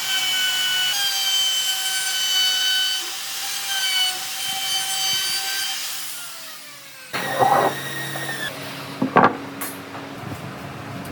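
Electric power saw running through wood with a steady high whine, then winding down about six seconds in. After that come rougher workshop noises and a couple of sharp knocks.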